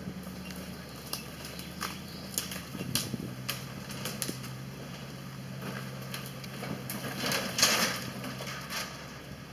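Land Rover engine running at low, steady revs as the vehicle crawls over rough ground, its hum dropping in pitch about two and a half seconds in. Scattered sharp clicks close to the microphone, and a louder noisy burst near the end.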